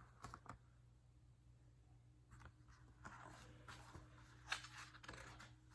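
Near silence with a low steady hum, broken by a few faint paper rustles and soft ticks, typical of a picture-book page being turned by hand.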